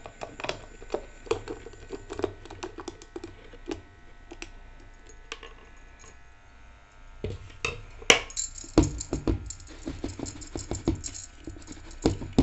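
Rice-and-lentil batter being poured and scraped into a greased container: small clicks and taps of a utensil against the dish, with one sharp click about eight seconds in and quicker tapping after it.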